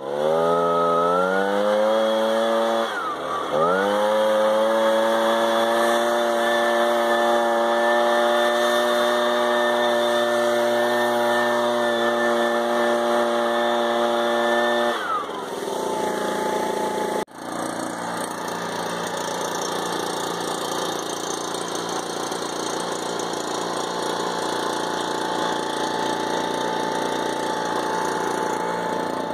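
Ryobi BP42 42cc two-stroke backpack leaf blower running. It revs up right away, dips and recovers about three seconds in, and holds high speed for about eleven seconds. About halfway through it drops to a lower steady speed and holds there. It runs cleanly after sitting nearly a year, started without the choke.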